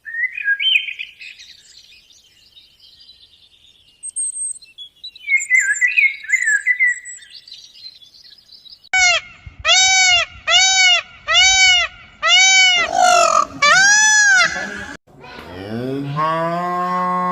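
Small birds chirping, then a run of about ten short, identical high calls at an even pace, cut off suddenly, and near the end a cow mooing in one long low call.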